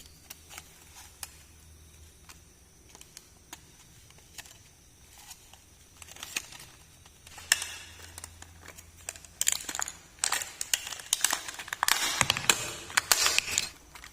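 Toy packaging being handled and crinkled close up, with scattered small clicks at first and then dense crinkling in the second half that stops just before the end.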